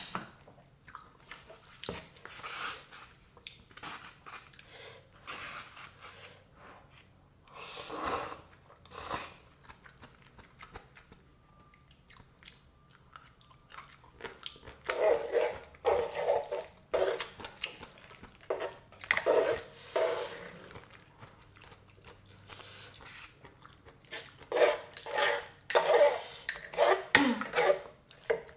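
A person chewing and eating close to the microphone, in irregular bursts of mouth sounds that grow louder and more frequent about halfway through.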